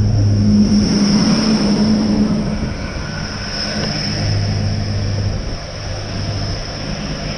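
Train running: a steady low engine hum with rail noise and a steady high-pitched whine, easing slightly in loudness after a couple of seconds.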